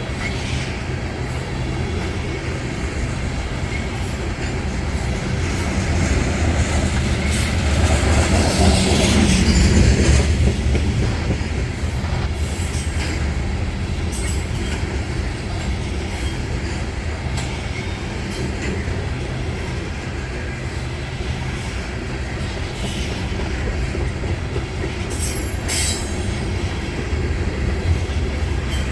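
A train rolling past on steel wheels: a continuous low rumble that swells briefly, with short squeals and clanks from the wheels on the rails.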